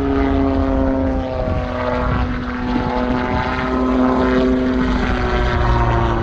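Calidus autogyro's Rotax engine and pusher propeller droning steadily as it flies past, the pitch dropping a little about a second in and then sagging slowly.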